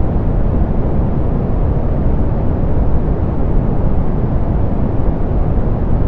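Steady soft pink noise: an even hiss, strongest in the low range and falling away toward the highs, with its treble rolled off so it sounds dull and rumbly rather than bright.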